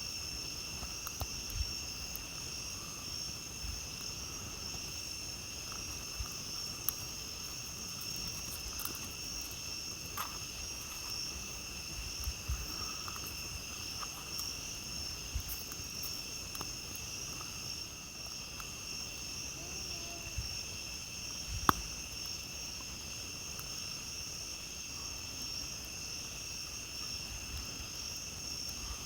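A steady chorus of night insects, chirring without a break in two high bands, with scattered sharp crackles and pops from a campfire; one pop about three quarters of the way through is the loudest.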